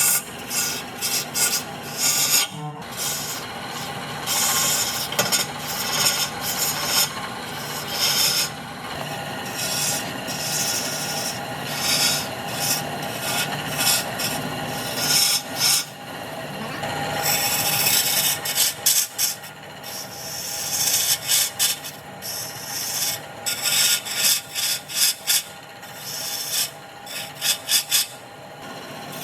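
Wood lathe running with a steady motor hum while a turning tool cuts the spinning wood blank in short, repeated scraping passes.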